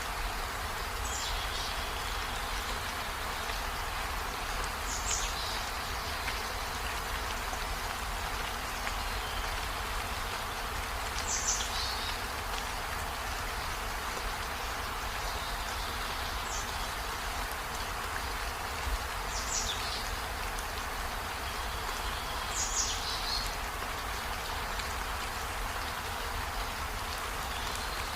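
Steady rain falling, an even hiss with no let-up. Every few seconds a short, high chirp drops in pitch; there are about six of them.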